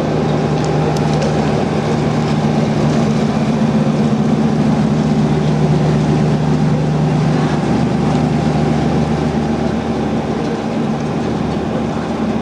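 A river tour boat's engine running steadily, heard on board as a constant low hum over a rushing noise of water and motion.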